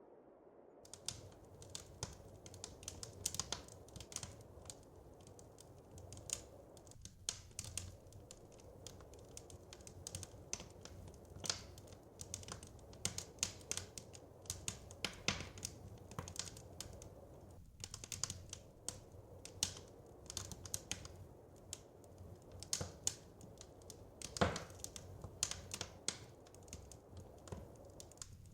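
Wood fire crackling in a fireplace: irregular sharp pops and snaps, several a second, some louder than others, over a steady low rumble.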